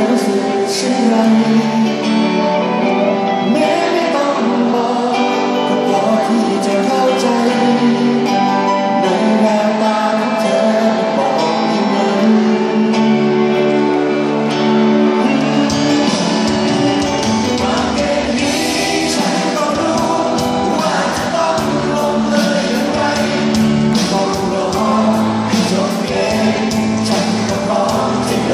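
A song sung live over guitar accompaniment. About halfway through, bass and drums come in, with a steady beat of cymbal ticks, and the band sound fills out.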